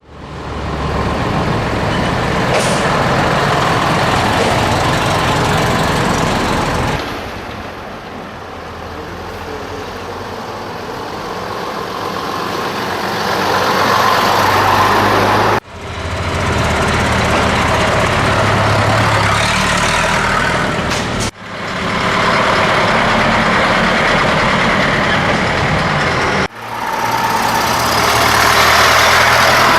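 Scania truck's diesel engine running while under way. The sound cuts off abruptly three times and comes straight back, and it drops to a lower level for several seconds about a quarter of the way in.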